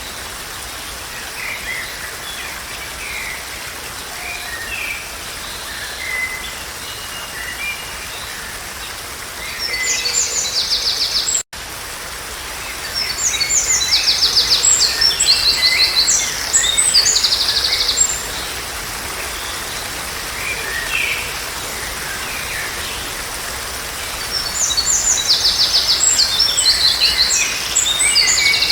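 Songbirds singing over a steady background hiss: one bird sings loud, high phrases of rapid trills and buzzy notes several times, with softer chirps between. The sound drops out for an instant about halfway through.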